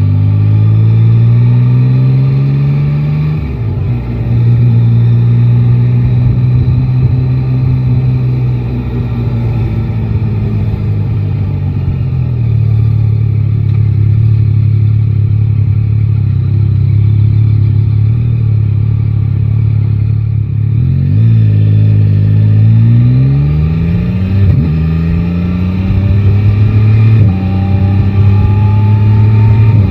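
Yamaha Tracer 9 GT's 890 cc inline-three engine on the road: it revs up, drops at a gear change and then runs at a steady pitch for a long stretch. In the last third it accelerates again through the gears, its pitch rising and dropping at each change.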